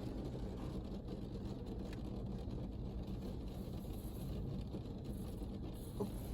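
Automatic car wash equipment running, heard from inside the car's cabin: a steady low rumble and wash.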